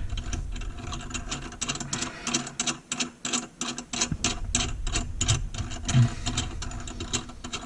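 Rapid, irregular clicking and ratcheting as a mounting nut is run up the long threaded shank of a widespread lavatory faucet under the sink.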